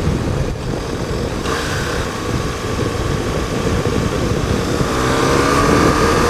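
A BMW R1200GS's 1170 cc flat-twin engine running while the bike is ridden, under a steady rush of wind and road noise. The engine note rises gently near the end as the bike gathers speed.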